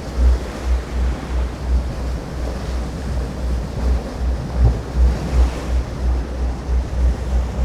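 Wind buffeting the microphone in repeated low rumbling thumps, over the wash of sea water.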